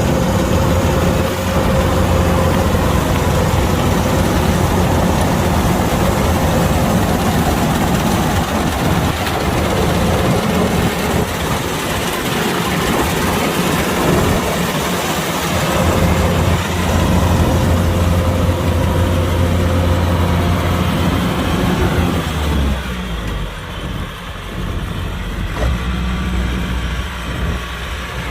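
Kubota DC-105X combine harvester's diesel engine running steadily. About 23 seconds in the sound turns duller and somewhat quieter, the hiss above it falling away.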